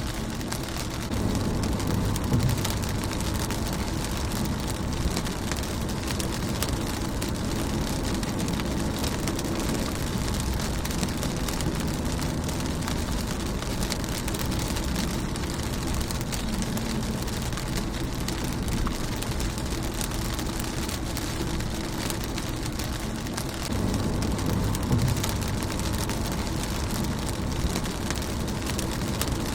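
Rain falling on a car's windshield, a steady hiss with many small drop taps. A deeper rumble swells up about a second in and again near the end.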